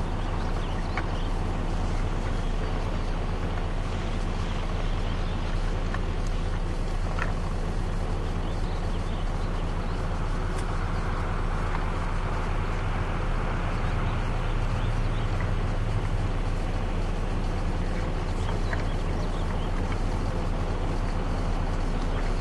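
Vehicle engine idling steadily: a constant low hum, with a few faint ticks.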